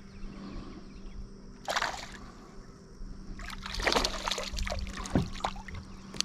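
Water splashing and sloshing around a kayak: one short splash about two seconds in, then a busy run of splashes and drips from about halfway on.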